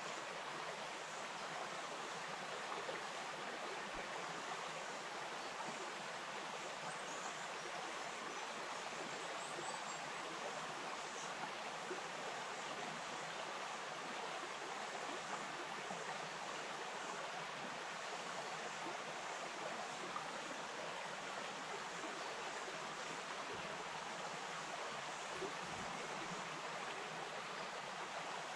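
A bush stream flowing, a steady, even rush of running water that does not change.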